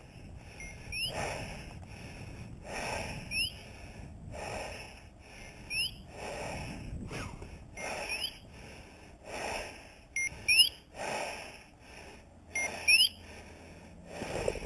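Heavy, slow breathing, one breath about every second and a half, as a person walks. Short rising whistle-like chirps repeat every couple of seconds over the breathing.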